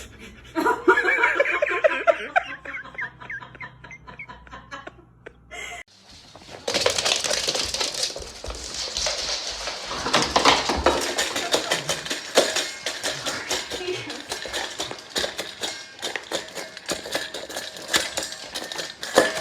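A short wavering voice or animal call, then, after a cut, a long run of rapid clattering and clinking like dishes and cutlery knocking together.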